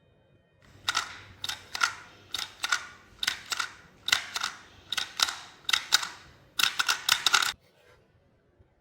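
Crisp, crackly crunches close to the microphone: a crunchy ball being squeezed and crushed, about a dozen in a row with a few in quick pairs, stopping abruptly.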